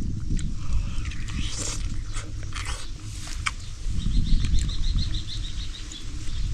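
An animal's rapid trill of high chirps, about eight notes a second, from about four to six seconds in, over a steady low rumble with a few brief rustles and clicks.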